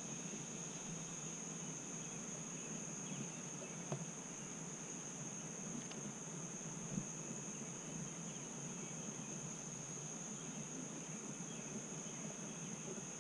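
Summer insect chorus, a steady high-pitched drone that does not let up, over a soft background hiss. Two brief faint ticks come about four and seven seconds in.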